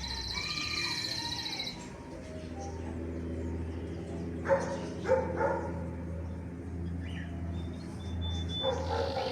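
Birds chirping, with a high buzzy trill in the first couple of seconds, over a steady low hum. A few short louder calls come around the middle and again near the end.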